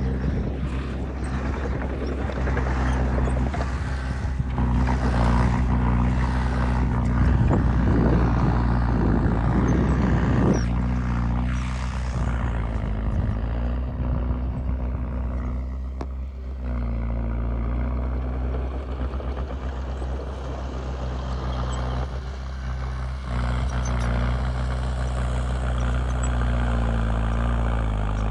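Heavy-equipment diesel engine running with a steady low throb, working louder from about four seconds in until about ten seconds in, then easing off, with brief dips in the revs twice later on.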